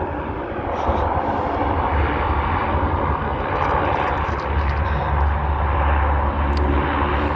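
Airliner engines running at the airport: a steady, fairly loud rumble with a faint steady tone above it.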